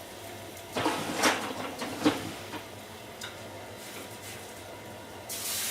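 Cookware clattering, a few sharp knocks between about one and two seconds in, then a loud frying sizzle that starts abruptly near the end as food meets the hot frying pan.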